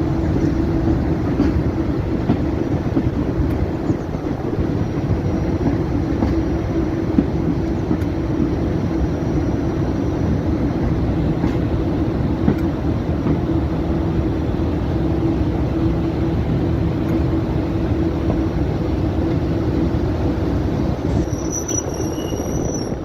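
Diesel train running on the line: a steady rumble of engine and wheels, with a thin high squeal near the end.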